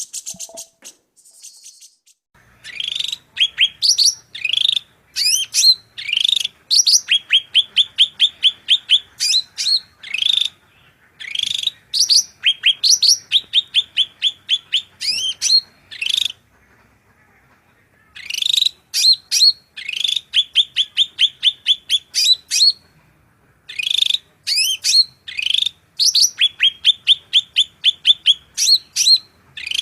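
A songbird singing loud, fast runs of short rising chirps, several notes a second, in bouts broken by two brief pauses.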